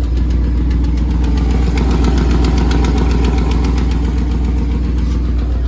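2001 Dodge Ram 1500's 5.2 L Magnum V8 idling steadily after a cold start, with a fast ticking over the engine note. The owner takes the ticking for an exhaust leak, which he traces to the joint between the exhaust manifold pipe and the downpipe. The engine is running with its drive belt left off.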